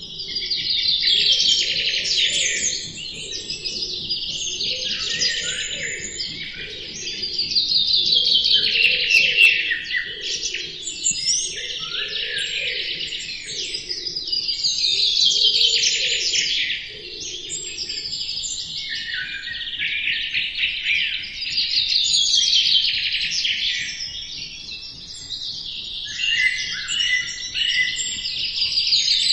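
Songbirds chirping and singing without a break. Loud trilling song phrases that slide downward swell up about every seven seconds over a steady background of chirps, and a fainter low pulsing sound runs beneath through the first half.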